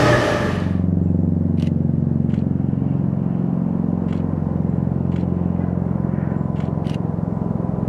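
The tail of a passing train's noise dies away about half a second in, then a distant diesel-hauled Coaster commuter train runs: a steady low engine drone with a few faint clicks.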